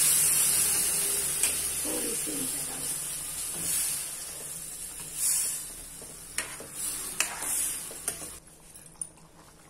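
Tomato-onion masala sizzling in a steel kadai, the hiss fading steadily, while a spoon stirs it and knocks against the pan several times.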